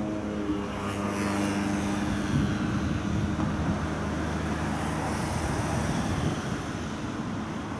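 Electric double-deck regional passenger train rolling across a river bridge and moving away: a steady rumble with a hum of several tones that dips slightly in pitch and fades out about halfway through.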